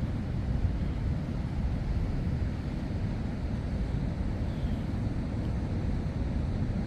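Steady low rumble of wind buffeting the microphone, with breaking surf underneath.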